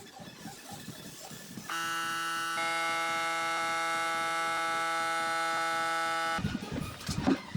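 A steady electric hum with several held tones starts abruptly about two seconds in, gets a little louder a moment later, and cuts off suddenly about six and a half seconds in. A short, noisy rumble follows near the end.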